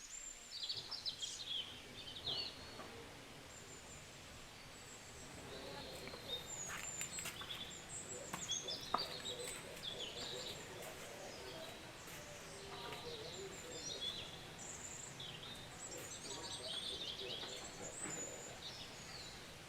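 Several small birds chirping and singing over steady outdoor background noise, with a few faint clicks and a sharper knock about nine seconds in.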